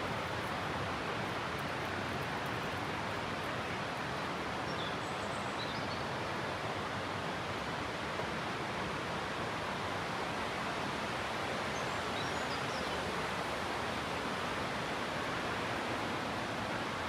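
Steady, even rush of falling water from a waterfall, with a few faint high chirps about five and twelve seconds in.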